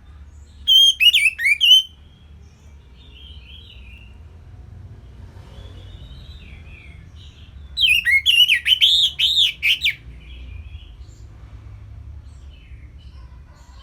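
Orange-headed thrush singing two short phrases of quick, looping high whistled notes, the second about twice as long as the first, with fainter bird calls between them over a steady low hum.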